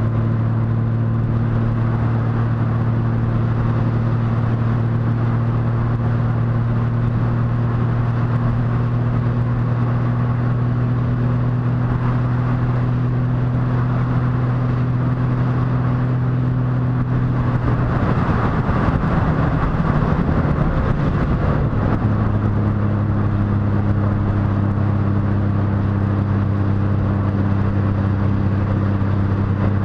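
Motorcycle engine running at a steady cruise. Past the middle its note breaks up for a few seconds, then settles again at a slightly lower pitch, as with a shift or a change of throttle.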